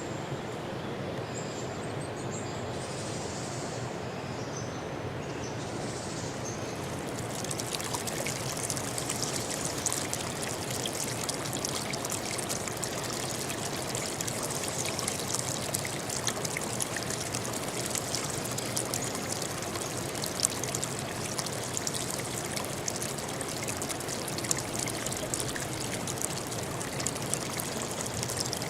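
Stream water running and babbling steadily; about seven seconds in, it turns brighter and more splashy.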